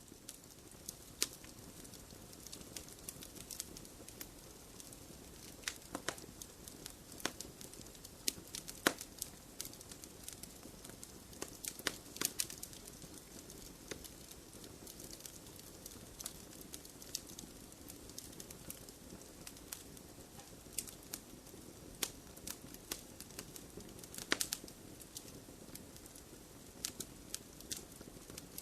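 Wood fire crackling in a fireplace: a steady low hiss of burning with irregular sharp snaps and pops, a few louder ones scattered through.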